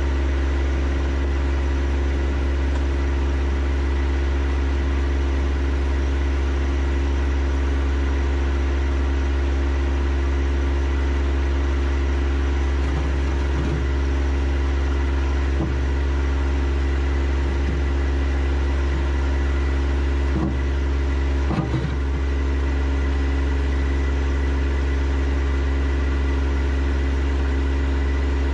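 A John Deere 1025R compact tractor's three-cylinder diesel engine running at a steady speed. A few short added sounds break in during the second half.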